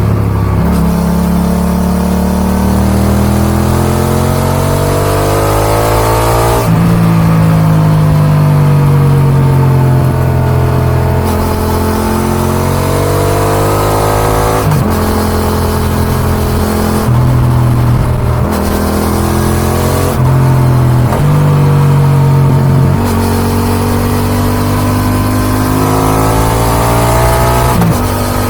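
Yamaha XSR700's parallel-twin (CP2) engine through an Akrapovic dual exhaust, pulling hard with the revs climbing, then dropping suddenly at an upshift, three times; between the pulls the revs fall more slowly as the throttle is eased off.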